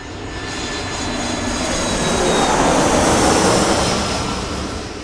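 Jet aircraft passing overhead: engine rush swelling to a peak about three seconds in and then fading away, with a faint high whine on top.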